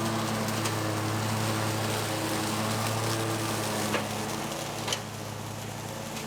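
Zero-turn mower's engine running steadily with the blades engaged, cutting through brush, with a couple of sharp clicks about four and five seconds in.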